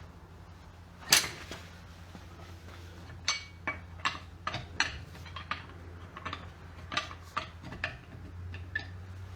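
Metal tools and parts being handled and set down: one sharp knock about a second in, then a dozen or so lighter clinks and clicks, over a steady low hum.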